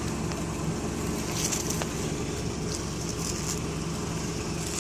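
Vehicle engine idling steadily, with a few faint brief rustling hisses over it.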